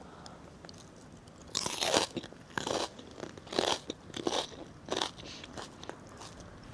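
Crunching bite into a cabbage leaf about a second and a half in, followed by chewing crunches roughly every half second to second.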